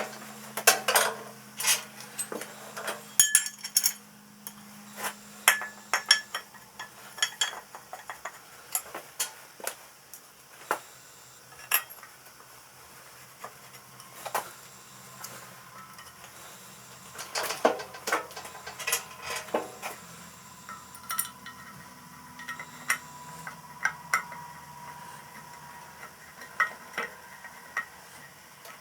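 Irregular metallic clinks and knocks of hand tools and metal parts being handled, some strikes ringing briefly, with a faint low hum in the first few seconds.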